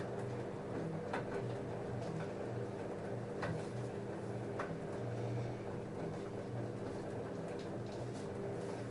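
LG F10A8HDS5 front-loading washing machine running a wash of jeans: a steady motor hum with a pulsing low drone as the drum turns, broken by a few short clicks.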